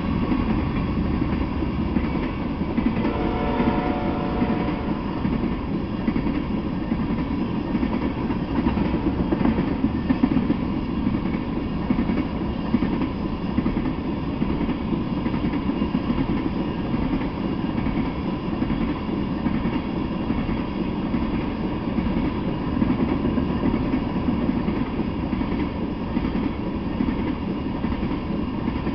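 Freight train of tank cars rolling past, a steady rumble of steel wheels on rail. A brief ringing tone sounds about three seconds in.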